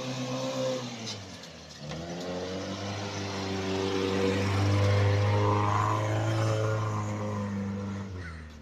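Zastava AR 55 off-road vehicle's engine revving. The pitch drops about a second in, then climbs and holds high before easing off near the end.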